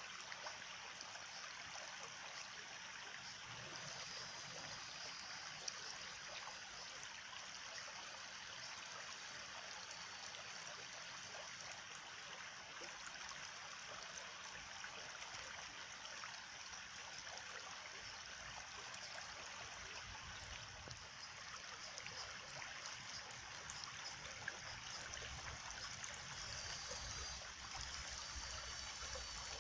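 A small stream of water running and trickling steadily, with faint thin high tones a few seconds in and again near the end.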